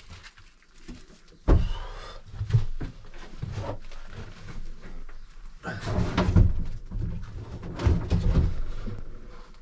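Knocks, bumps and rustling of objects being handled and moved about inside a small sailboat's cabin, with a sharp knock about a second and a half in.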